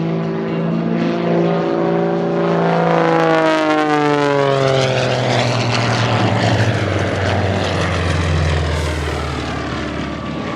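Propeller-driven Pitts aerobatic plane passing by: the piston engine and propeller drone grows louder, drops in pitch as it goes past about four seconds in, then slowly fades.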